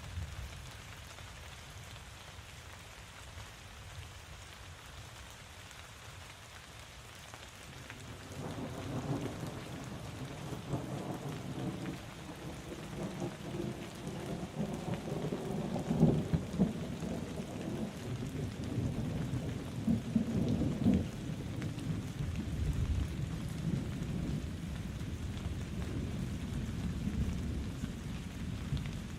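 Steady rain falling, with a long low roll of thunder building in about a quarter of the way through, loudest around the middle, then rumbling on.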